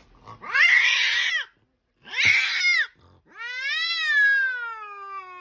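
A cat yowling three times, the last call long and sliding down in pitch.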